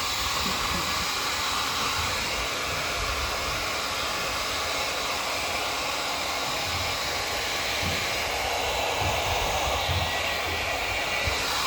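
Hair dryer blowing steadily on wet fur, with air buffeting the microphone in low thumps.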